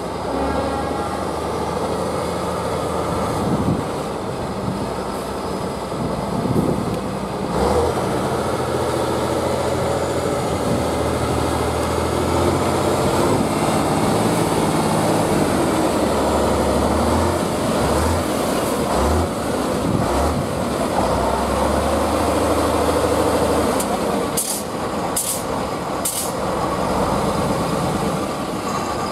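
Heavy diesel engine of a competition truck working on an off-road trial course, its note shifting up and down as the load and throttle change. A few short, sharp noises come near the end.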